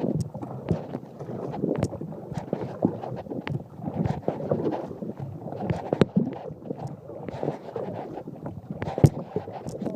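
Kayak paddling: splashing paddle strokes and irregular knocks of the paddle and camera against the kayak, with wind buffeting the microphone. One sharper knock comes about nine seconds in.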